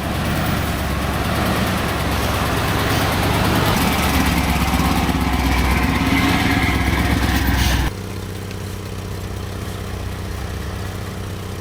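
An engine running loudly with a dense, noisy sound. About eight seconds in it cuts abruptly to a quieter, steadier engine sound.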